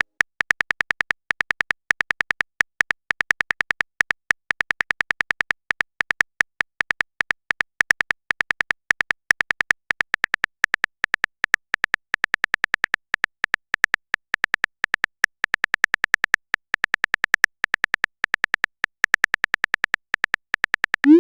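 Rapid typing clicks, a keyboard sound effect, about seven or eight short clicks a second in bursts with brief pauses.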